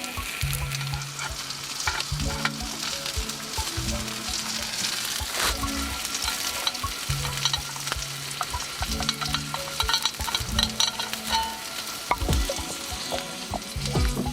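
Food sizzling and frying on a small iron griddle over a campfire, with frequent sharp clicks and scrapes of a utensil stirring it on the hot plate.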